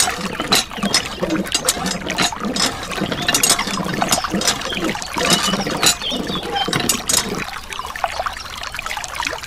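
Water trickling and splashing in small irregular spurts, thinning out about seven and a half seconds in.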